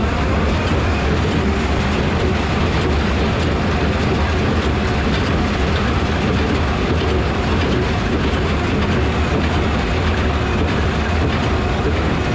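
Tractor and small square hay baler running steadily in the field, a loud engine drone under a dense, continuous rattle of machinery.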